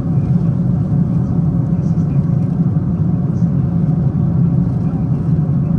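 Steady low rumble of a Boeing 777-200ER's cabin at cruise: engine and airflow noise heard from an economy seat, unchanging throughout.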